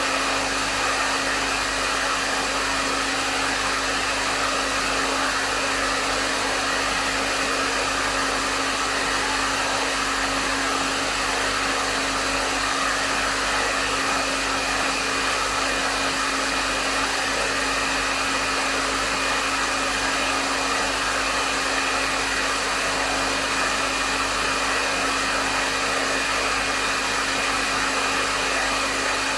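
Hair dryer running steadily at medium setting: an even rush of blown air with a constant motor hum underneath, no changes.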